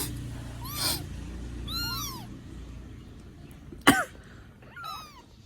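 Baby kittens mewing: short, thin, high mews that rise and fall in pitch, several times, some overlapping. About four seconds in, a sudden loud cough-like burst is the loudest sound.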